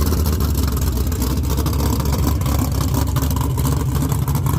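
Drag racing car's engine idling with a loud, steady, rough rumble, not revving.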